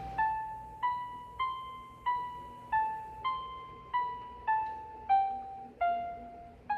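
Keyboard with an electric-piano tone playing a slow single-note melody: about eleven notes, roughly one every 0.6 s, each struck and then dying away. It is the instrumental introduction of a song.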